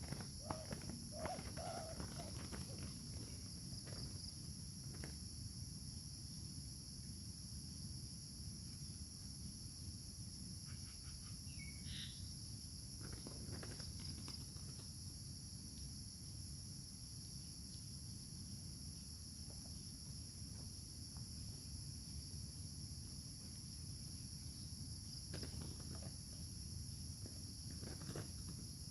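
Steady high-pitched insect chorus in two unbroken bands, over a low rumble of outdoor background noise. A few faint clicks, and one short falling note about twelve seconds in.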